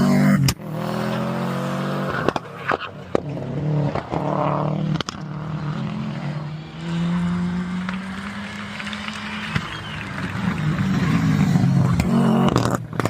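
Rally car engines running hard, their note rising and falling as they accelerate and change gear, in a string of short clips that cut abruptly from one car to the next.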